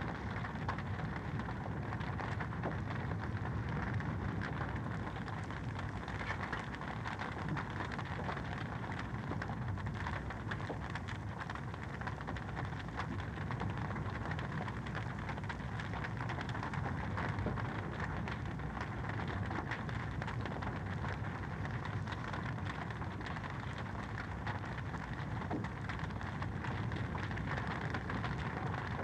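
Wood fire in a fireplace crackling steadily: dense small pops and snaps over an even rushing hiss.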